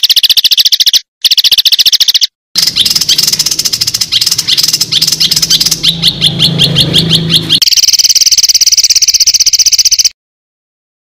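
Recorded songbird calls played as a training track for cage birds: fast, harsh, sharp trills and rapidly repeated high notes in several clips cut back to back, with short gaps between them and a break into silence about a second before the end.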